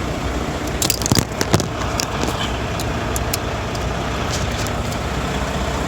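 Truck engine idling with a steady low rumble. A short run of sharp clicks and clatters comes about a second in, with a few lighter ticks later.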